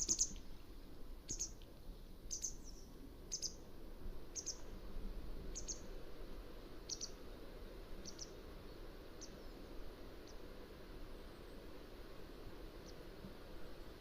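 Mountain wagtail giving a series of short, sharp, high-pitched call notes about once a second, loudest at the start and fading away toward the end.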